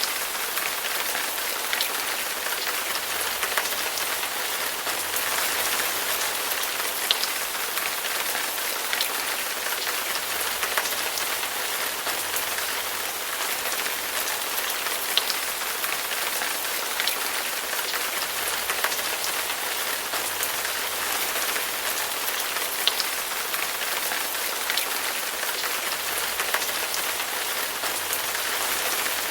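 Heavy rain falling steadily, a dense even hiss with occasional louder individual drops ticking through it.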